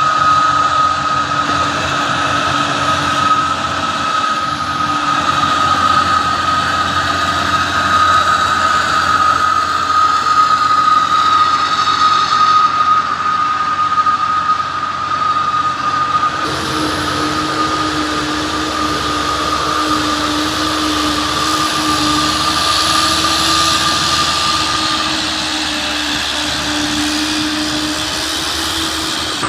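Heavy diesel truck running steadily, with a constant high whine over the engine; the sound changes abruptly about 16 seconds in.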